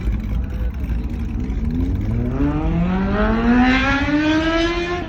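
Car engine revving up: one long climb in pitch that starts about a second and a half in, rises for over three seconds and drops off sharply right at the end, over a steady low rumble.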